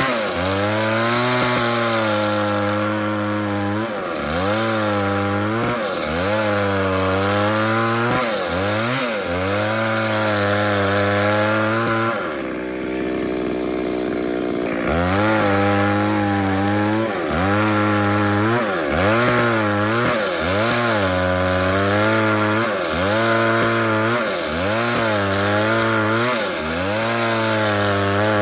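Chainsaw cutting wood in repeated passes, its engine pitch sagging under load and revving back up about every two seconds. About halfway through it drops to a lower, steadier idle for a few seconds, then goes back to cutting.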